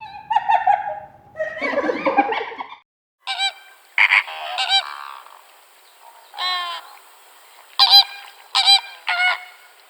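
Bird calls: after a short break about three seconds in, a run of short, pitched calls repeats several times, coming faster near the end. Before the break, a different, rougher call.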